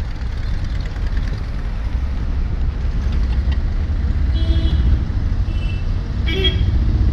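Steady low rumble of a road vehicle's engine and tyres, growing slightly louder, with two short horn toots in the second half.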